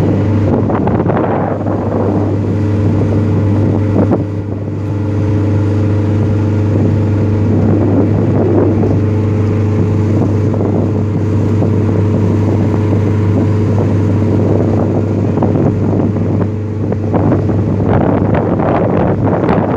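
A boat's engine running steadily with a low, even drone, and wind buffeting the microphone, heaviest near the start and toward the end.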